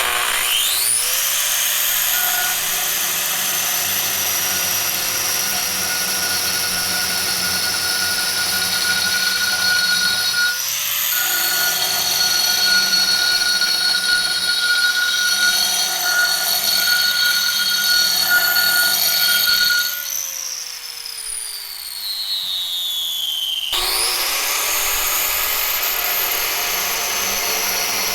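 Angle grinder spinning up with a rising whine and running at a steady high pitch. It briefly stops and restarts about a third of the way in, winds down with a falling whine about two-thirds through, then spins up again.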